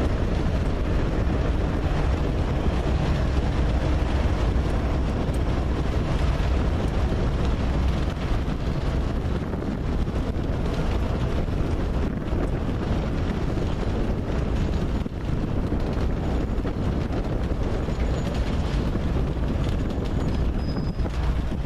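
Freight train cars rolling past at close range, with a tank car, covered hoppers and lumber-loaded centerbeam flatcars going by: a steady rumble of wheels on the rails, mixed with wind on the microphone.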